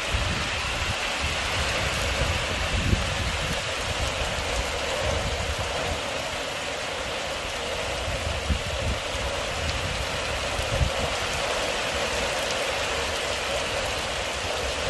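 Steady rain falling on a waterlogged mud yard and puddles, with a few brief low thumps.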